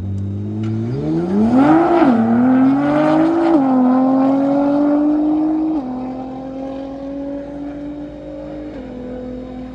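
Twin-turbo Nissan GT-R launching off the start line and accelerating hard away through the gears. The engine note climbs steeply, then drops at upshifts about two, three and a half, six and nine seconds in, growing fainter as the car pulls away.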